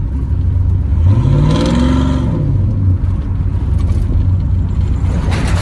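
Cammed 5.3 LS V8 running through a Carven R-series muffler, a steady low exhaust drone that revs up about a second in and drops back to a lope within a couple of seconds. A short sharp noise near the end.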